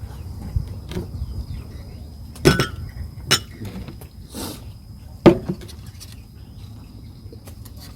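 Cutlery clinking against a dish several times, with the sharpest clinks about two and a half, three and a half and five seconds in.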